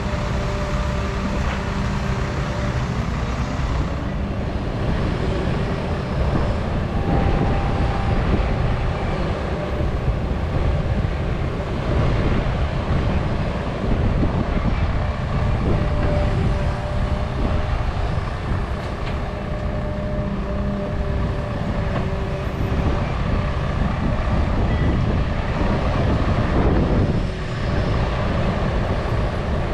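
Doosan 350 hydraulic excavator working under load: a heavy diesel engine rumble with steady hydraulic whining tones, briefly changing pitch and dipping near the end.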